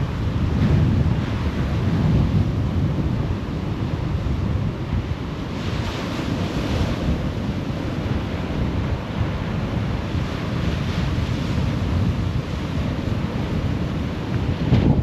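Wind buffeting the microphone over the steady wash of sea surf breaking on a sandy beach, with a louder surge of surf about six seconds in.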